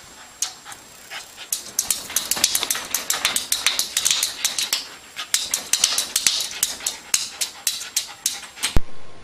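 Rapid, irregular taps and scratches of an animal striking at a mirror, coming thick and fast from about a second and a half in, with one sharp, loud knock near the end.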